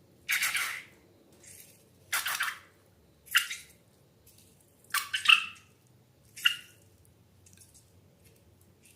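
Slime squelching: a series of short wet squishes, several loud ones and a few faint ones, coming at irregular intervals.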